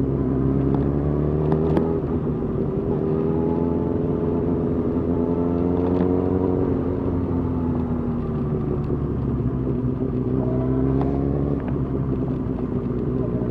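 Suzuki GSX-R 1000 inline-four engine running steadily at low parade speed, its pitch rising and falling gently as the throttle is eased on and off.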